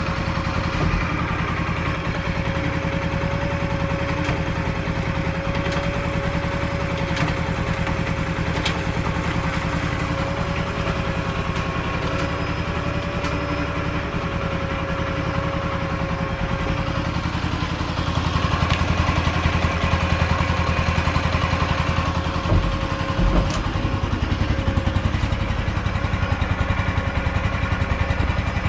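Jianshe JS150-13 motorcycle's 150 cc single-cylinder engine idling steadily, getting a little louder about two-thirds of the way through.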